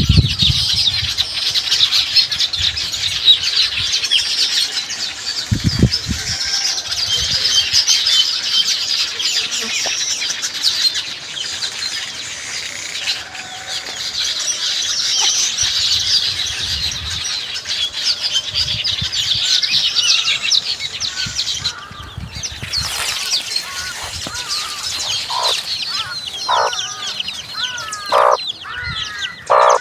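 A colony of weaver birds chattering and chirping, a dense mass of high calls that thins out after about twenty seconds; near the end a few louder single calls stand out.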